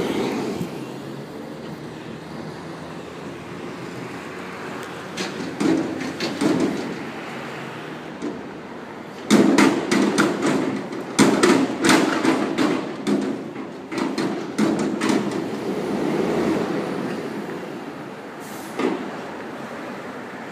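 Garbage truck running, with a burst of repeated metallic clanks and bangs about halfway through and one more bang near the end.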